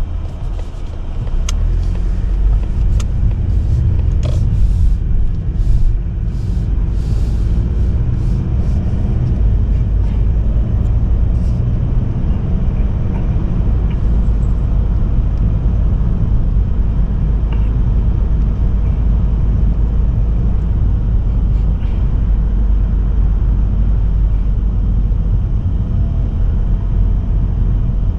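Steady low road rumble of a Mazda3 sedan with a 1.8 diesel driving on the highway, tyre and engine noise heard from the car. A few brief sharp clicks come in the first several seconds.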